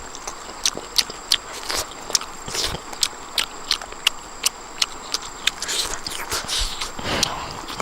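Irregular sharp clicks and crunches, several a second, of people eating: biting, chewing and smacking.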